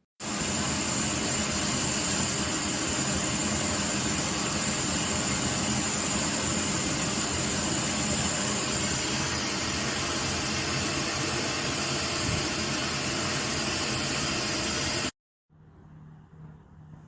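Russell Hobbs 700 W compact cylinder vacuum cleaner running steadily with a high motor whine over a loud rushing of air, cutting in suddenly at the start and stopping abruptly about fifteen seconds in.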